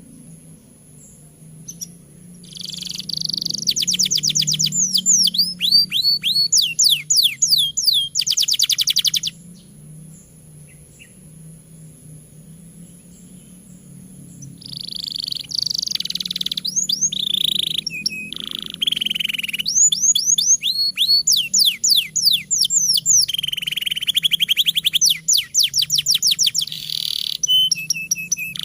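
Canary singing a long song of rapid trills and fast runs of repeated falling notes, in two long bursts with a quieter gap of about five seconds between them. A faint steady low hum lies underneath.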